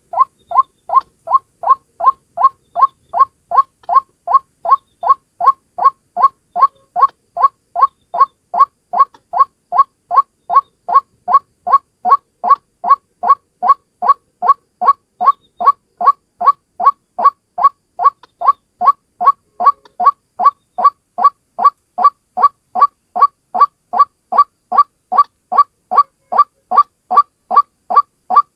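White-breasted waterhen (ruak-ruak) call, a single short note repeated steadily about two and a half times a second without pause, played as a trapping lure.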